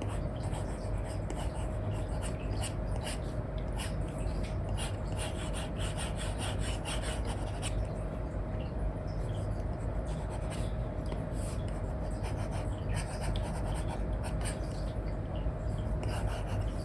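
Stylus nib scratching and tapping in short strokes on a paper-like matte screen film over an iPad, an Apple Pencil 2 with an Elecom nib drawing, over a steady hiss with a faint steady hum.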